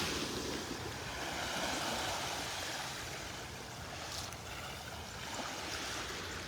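Small Gulf of Mexico waves washing steadily on the beach, a soft even rush of surf.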